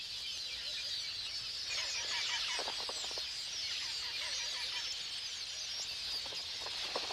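Dense chorus of many queleas chirping and chattering at once in a breeding colony.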